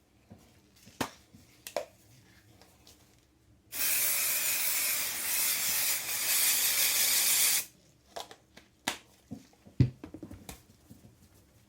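A pressurised spray hissing in one continuous burst of about four seconds, starting and stopping abruptly, with light taps of handling before and after.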